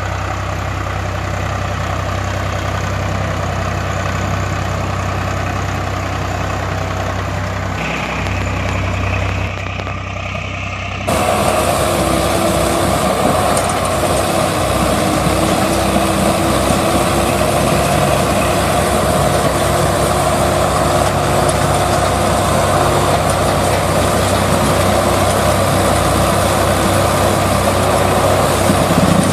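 Heavy vehicle engine running steadily; about eleven seconds in the sound switches abruptly to a louder, busier engine note that holds to the end.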